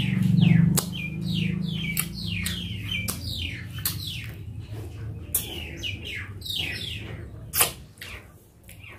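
Open-mouthed wet chewing and lip-smacking as a mouthful of pork and rice is eaten by hand: repeated sticky clicks, roughly two a second, each with a quick falling squelch. A low hum in the first second, fading out near the end.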